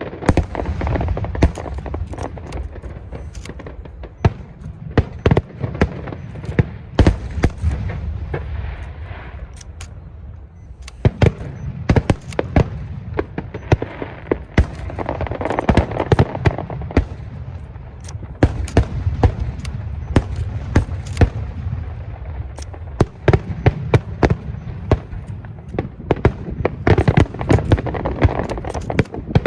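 Aerial fireworks bursting in rapid succession: many sharp bangs over a continuous low rumble and crackle, easing briefly about ten seconds in before building again.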